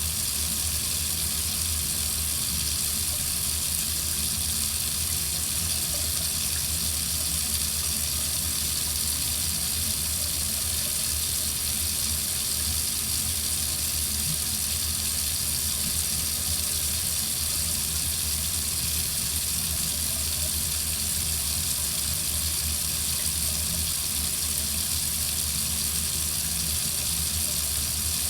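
Water running steadily from a faucet into a sink: an even, unbroken hiss with a low rumble underneath.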